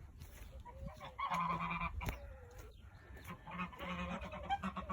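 Two calls from domestic fowl, one about a second in and a longer one near the end.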